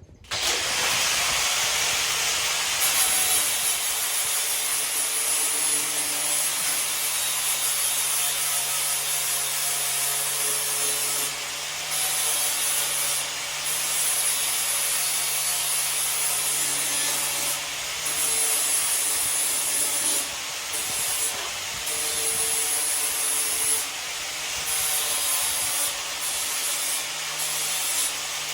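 A handheld power tool working on metal, running steadily with a loud hiss and a low motor hum, with brief dips in load every few seconds.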